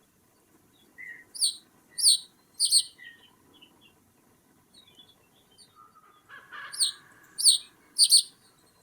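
A bird calling in two series of three loud, sharp notes, each falling slightly in pitch, the second series about four seconds after the first, with faint softer chips between.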